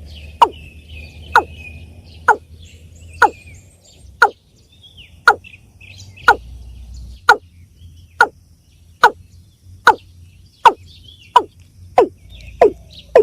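Water cock calling: a steady series of short, deep notes, each falling sharply in pitch, about one a second and quickening towards the end. Faint chirps of small birds sound behind it.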